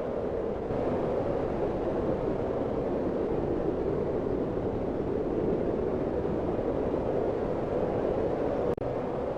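Steady, low rushing wind with no gusts or tones, dipping for an instant near the end.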